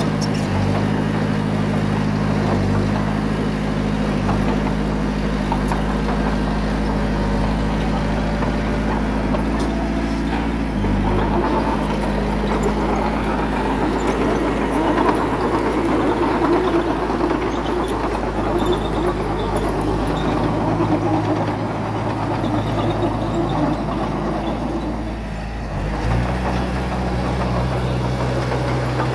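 Heavy diesel engine of earth-moving machinery running steadily. About ten seconds in it grows noisier and louder for roughly fifteen seconds, dips briefly, then settles back to a steady run.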